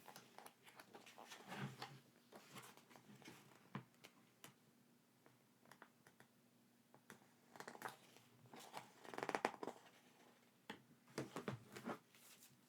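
Quiet handling of paper and plastic merchandise and packaging: scattered light clicks and rustles, with a louder run of rustling about nine seconds in and more near the end.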